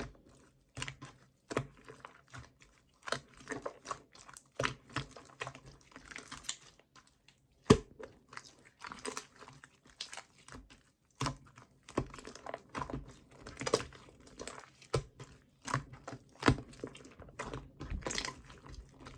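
Yellow clear slime being squished and pressed by hand, giving irregular sticky clicks and pops, with one sharper pop about 8 seconds in.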